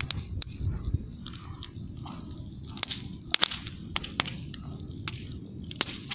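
Wood campfire crackling: irregular sharp pops and snaps, the loudest about three and a half seconds in, over a low steady rumble of the burning fire.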